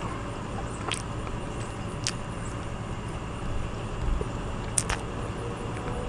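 Steady low background rumble, with three short sharp clicks about one, two and nearly five seconds in.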